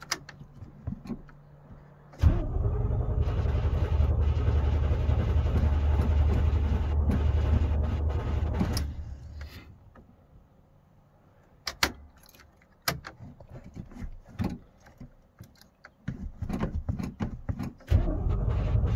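Cold start attempt on a 1981 Chevy K30's small-block 350 V8, which has sat for weeks in freezing weather on an untuned carburetor. About two seconds in, the engine is cranked and turns over for about seven seconds, then winds down and stops. After a few scattered clicks, it is cranked again near the end.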